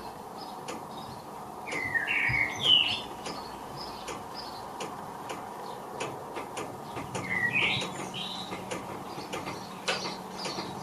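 Common blackbird singing: two loud warbling song phrases, about two seconds in and again about seven seconds in, with faint high twittering notes repeating between them.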